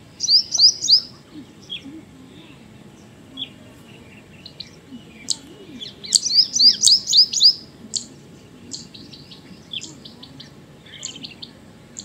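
Small birds chirping: a quick run of short, high, downward-slurred notes right at the start and a longer, louder run about six seconds in, with scattered single chirps between.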